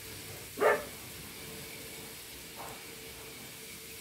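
Vegetables sautéing in a wok over an open wood fire, a steady hiss. A dog barks once loudly less than a second in, and once more faintly near the middle.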